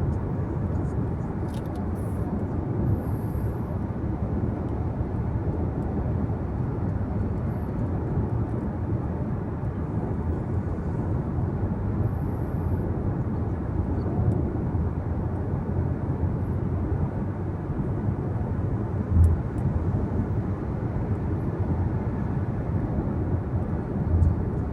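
Steady road and engine noise inside a car's cabin while driving, a low even rumble. Two short low thumps come late on.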